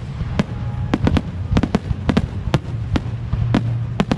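Fireworks going off in quick, irregular succession: a dozen or so sharp bangs and cracks, several a second, over a continuous low rumble.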